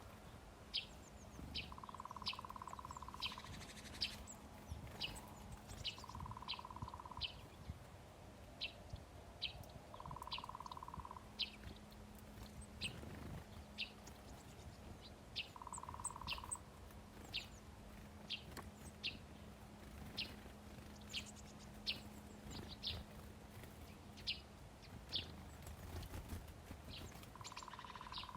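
Small birds chirping, short high chirps repeating about once or twice a second. A buzzy tone of about a second sounds several times, with a faint steady hum underneath.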